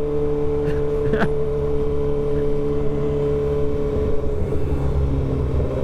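Kawasaki ZX-6R 636 inline-four engine running at steady revs, with a low rumble of wind and road under it.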